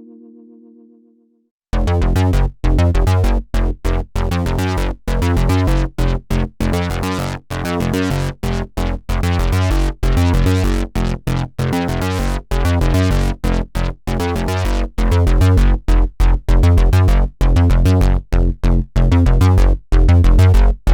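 Sequential Fourm analog polyphonic synthesizer playing a factory preset with no effects. A held note fades away, and about two seconds in a rhythmic run of short, punchy, bass-heavy notes starts, separated by brief gaps.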